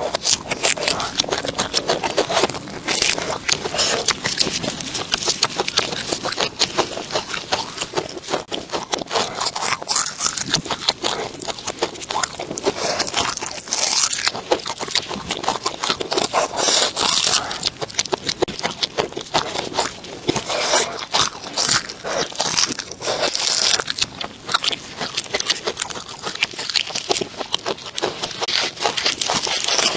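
A person chewing crunchy food close to the microphone: dense, continuous crunching and crackling.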